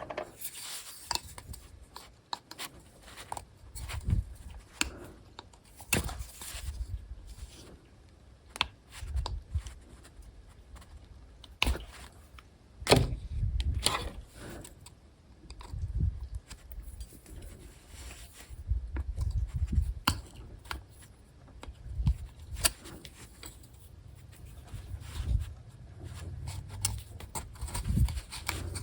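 Irregular clinks, knocks and scrapes of metal tools and parts being handled, with dull low thuds in between.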